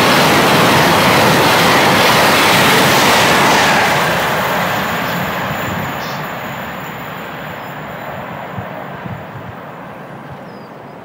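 A train passing by: loud wheel-and-rail noise for about the first four seconds, then fading steadily as the train draws away, with a few light clicks near the end.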